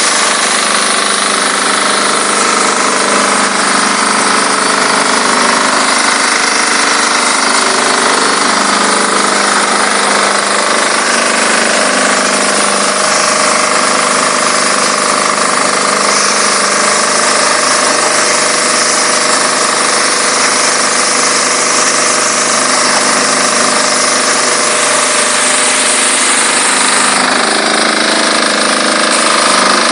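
Diesel-engine-driven high-pressure washer running steadily: the engine and pump hum under a loud, even hiss of the spray jet. The sound shifts slightly near the end.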